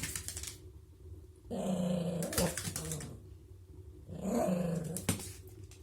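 Toy terrier growling playfully in two growls, each about a second long, with a few sharp clicks in between.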